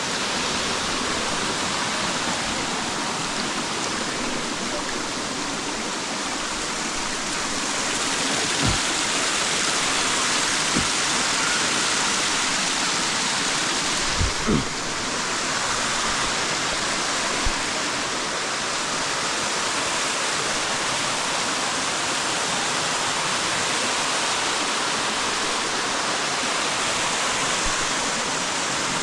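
Natural waterfall: water falling and rushing steadily, a constant dense noise close to the microphone. A few short knocks come through around the middle.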